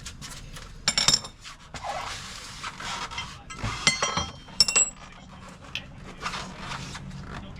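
Metal objects clinking and clanking: several sharp strikes with a ringing tone, the loudest about a second in and again around four to four and a half seconds in, with some scraping between them.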